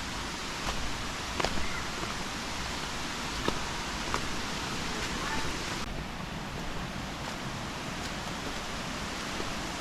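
Steady rush of flowing water from a waterfall or stream, with a few faint clicks.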